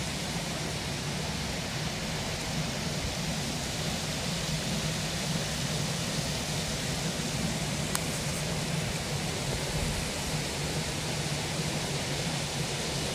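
Steady rushing of flowing stream water, with one faint click about 8 seconds in.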